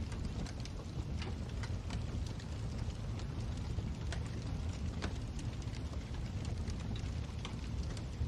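Wood fire crackling in a fireplace: a steady low rumble with irregular sharp pops and snaps scattered throughout.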